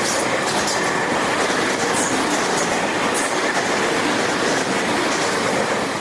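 Tobu 30000 series electric commuter train passing close by while accelerating: a steady rumble of wheels on rail with repeated sharp clicks as the wheels cross rail joints.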